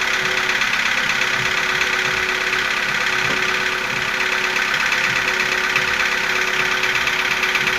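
Nissan QG15DE 1.5-litre four-cylinder petrol engine idling steadily while warming up after a cold start, with a ticking that persists as it warms.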